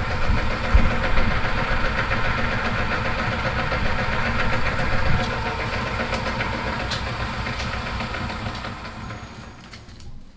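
Myford Super 7B lathe running with its gearbox and lead-screw power feed engaged, a steady mechanical whir and clatter of gears. A thin high whine cuts out about a second before the end, and the machine then winds down.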